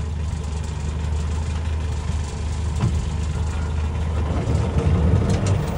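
Land Rover Series IIA engine running low and steady in first gear, heard from inside the cab, its note growing louder and fuller about four seconds in as the vehicle pulls away.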